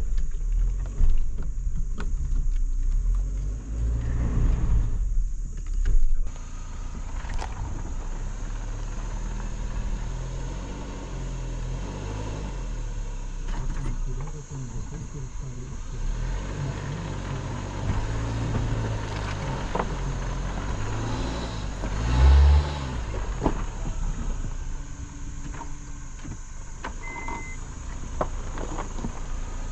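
Motor vehicle running with a steady low rumble, with louder, gusty noise over the first six seconds and a short louder thump about twenty-two seconds in.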